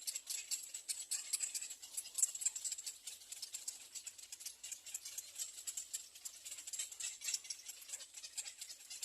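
Little egret nestlings begging for food: a fast, high-pitched, continuous chattering of ticking calls.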